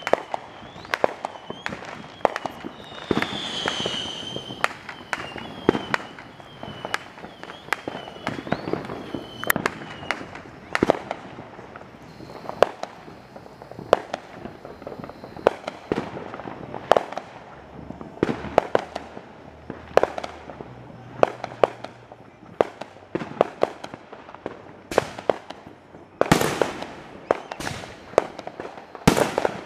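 Neighbourhood Fourth of July fireworks and firecrackers: irregular sharp bangs and pops, several a second, from many launches at varying distances. A high wavering whistle sounds over the first several seconds, and a denser, louder crackling burst comes near the end.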